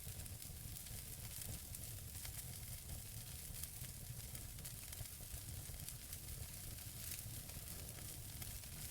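Wood fire burning in a fireplace: burning logs crackling with scattered sharp pops and ticks over a steady hiss and low rumble of the flames.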